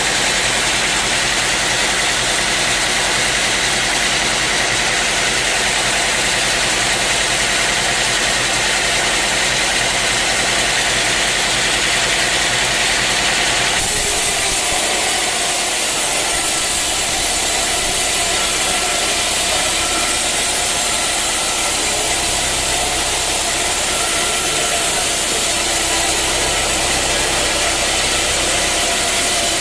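Sawmill machinery running with a steady engine noise; the sound changes abruptly about fourteen seconds in.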